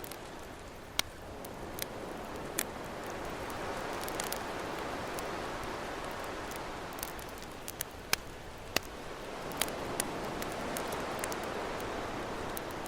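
Campfire crackling, with sharp pops scattered irregularly, over ocean surf that swells and falls back twice.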